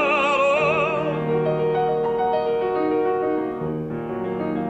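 An operatic tenor holds the last note of a sung phrase with wide vibrato for about a second. The piano accompaniment then plays on alone in a short interlude.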